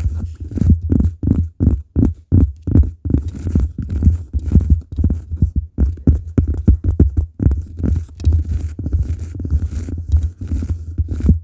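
Fingertips tapping on cork close to the microphone: quick, irregular dull thuds, a few a second.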